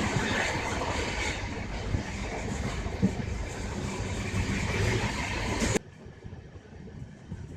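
Train running, heard from on board: a steady rumble and hiss of wheels on the track, with a couple of sharp knocks. About six seconds in it cuts off suddenly to a much quieter, duller running sound.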